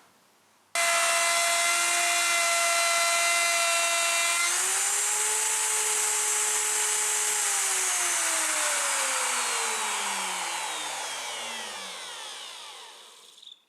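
Electric woodworking router switched on, running at a steady high speed with a whine that rises a little partway through. It is then switched off and its pitch falls steadily as the bit spins down over about six seconds.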